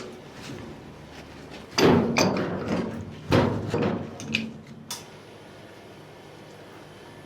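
Two heavy knocks about a second and a half apart, then lighter clatter, as the failed pressure relief valve is worked off the boiler with hand tools.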